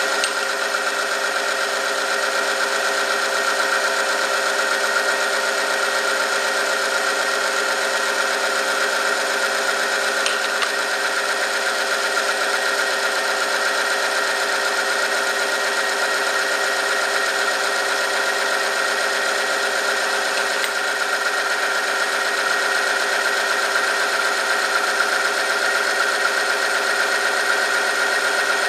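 Oil-film strength test machine running: an electric motor driving a rotating steel part against a metal test sample lubricated with two-stroke oil heated to 100°C. It makes a steady mechanical whine with a strong high tone that holds unchanged throughout.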